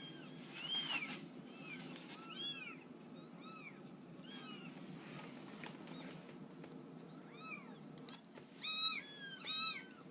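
A cat meowing over and over in short, high calls that rise and fall in pitch, coming faster and louder near the end.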